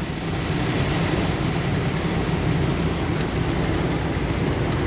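Heavy rain falling on a moving car, with steady engine and road noise, heard from inside the cabin.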